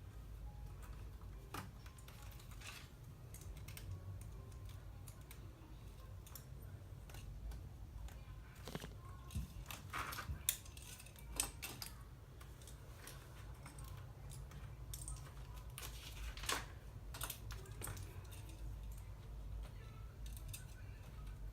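Plastic LEGO bricks being handled, pressed together and pulled apart: scattered small clicks and snaps, a few louder ones, over a steady low hum.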